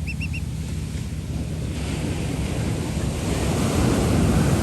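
Ocean waves and wind buffeting the microphone over a steady low hum, the rush growing louder from about two seconds in. Right at the start there are four quick, high chirps.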